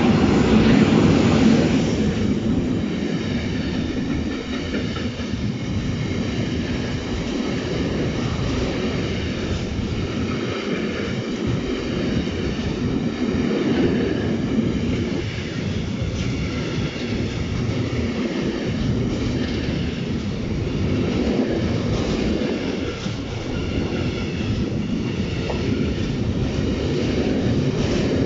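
Electric locomotive and a long freight train of tank-container wagons passing close at speed: a continuous rumble of steel wheels on the rails with clickety-clack over the joints and a faint high ringing from the wheels. It is loudest in the first couple of seconds as the locomotive goes by.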